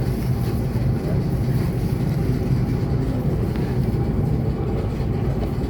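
Steady low rumble and hum of an ET2 electric multiple unit, with no distinct knocks or changes.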